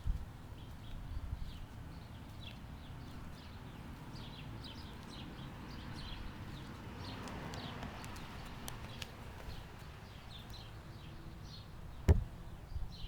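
Small birds chirping on and off over a low rumble, with a single sharp knock near the end.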